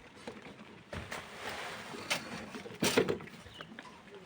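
Manual work with sand and stone: a scraping hiss broken by three sharp knocks, the loudest near the end.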